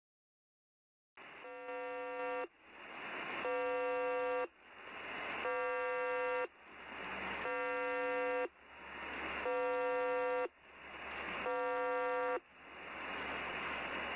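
Shortwave radio signal: after a second of silence, a steady buzzing chord of several tones, each burst about a second long, alternates with about a second of static hiss, repeating every two seconds six times.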